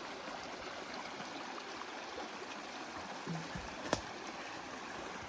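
Forest stream water flowing steadily, with a single sharp knock about four seconds in.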